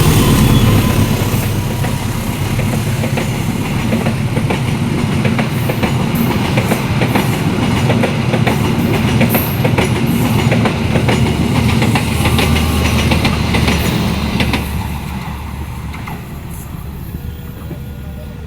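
A train passing close by: a steady rumble of steel wheels on rails with many sharp clacks over the rail joints, dying down about fifteen seconds in.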